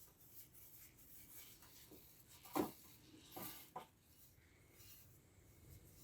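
Faint scraping and rubbing strokes on metal as old paint is taken off the heater's parts, with a sharper, louder scrape about two and a half seconds in and two smaller ones soon after.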